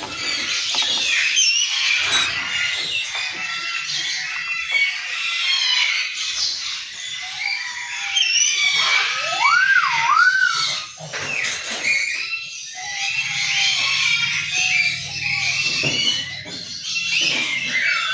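A brood of baby parrots chirping and squealing nonstop in shrill overlapping calls. About nine seconds in, a clear whistle slides up and down twice over the chatter.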